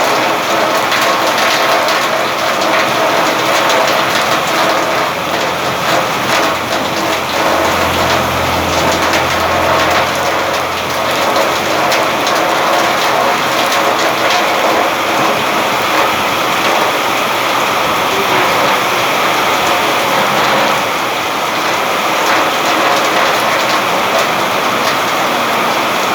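Steady heavy rain falling, a dense even patter of drops, with a low rumble swelling for a few seconds about a third of the way in.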